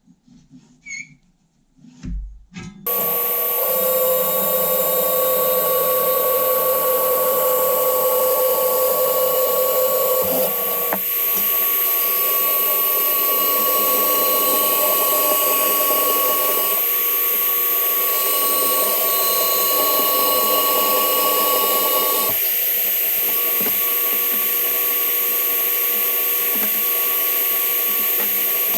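A few light clicks, then about three seconds in an electric power tool starts and runs steadily with a constant whine. Its tone shifts slightly twice.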